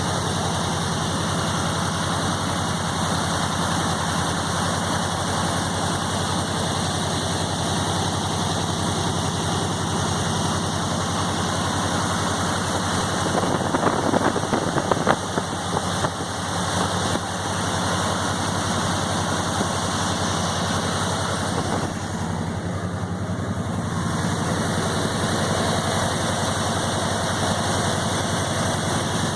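A 1980 Chevrolet Corvette's V8 engine idling steadily, with a few brief louder surges around the middle.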